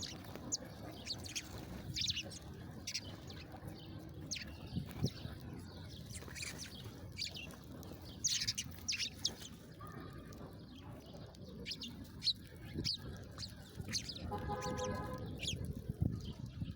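Small songbirds chirping: many short, quick high chirps, each dropping in pitch, coming irregularly over a low background rumble, with a brief lower-pitched call near the end.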